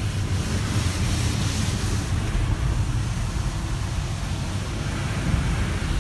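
Automatic car wash tunnel equipment heard from inside the car: a steady rushing wash noise over a low rumble, with a brighter hiss in the first couple of seconds.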